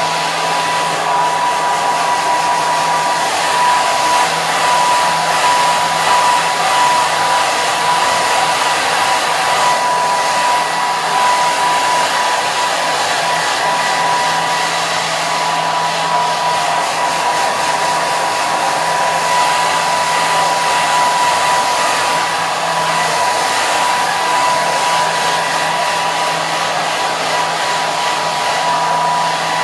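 Electric hair dryer running continuously: a steady rush of blown air with a constant high motor whine and a low hum.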